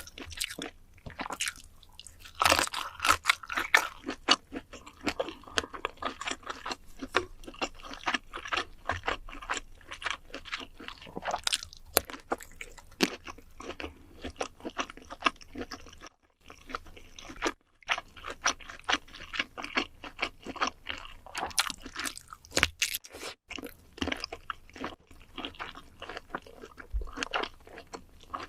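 Close-miked eating: a person biting and chewing crunchy food, a dense run of short crunches and mouth sounds with only a few brief pauses.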